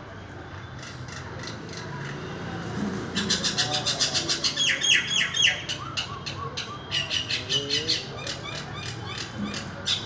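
Birds chirping rapidly and excitedly, a dense run of quick, high chirps that starts about three seconds in, with a few lower squawks among them.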